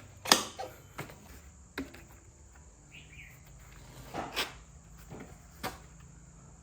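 A handful of sharp, irregularly spaced knocks, the loudest about a third of a second in and others near 1, 2, 4 and 6 seconds, over a faint steady high-pitched tone.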